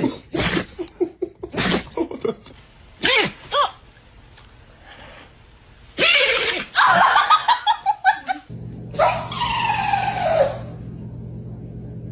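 A dog sneezing several times in short sharp bursts, then a person laughing in quick pulses. Near the end, a long cry that falls in pitch.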